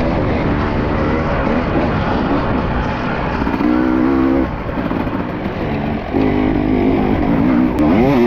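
Dirt bike engine being ridden hard, its revs rising and falling with the throttle, with a quick rev-up near the end.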